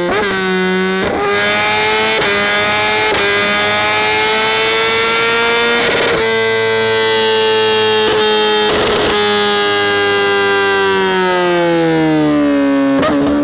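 BMW motorcycle engine held at high revs. Its pitch climbs slowly, holds, then falls away near the end, with a few short sharp pops along the way.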